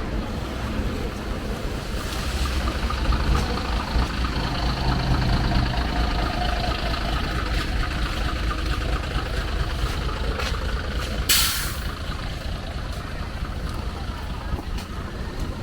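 A heavy vehicle's engine running close by with a steady low rumble. About eleven seconds in there is a short, sharp hiss of air.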